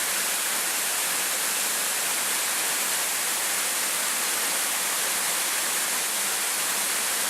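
Waterfall crashing steadily, a dense even rush of water, full and loud with the falls running high after heavy rain.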